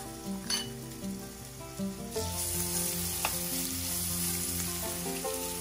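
Hilsa roe sizzling as it shallow-fries in oil in a nonstick pan, the hiss growing stronger about two seconds in, with a couple of clicks of a fork against the pan as the eggs are separated. Background music plays underneath.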